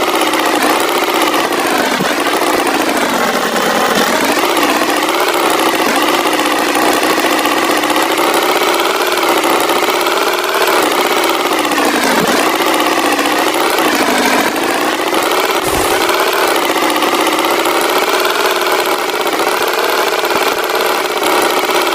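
Tractor engine running steadily, its pitch rising and falling a little.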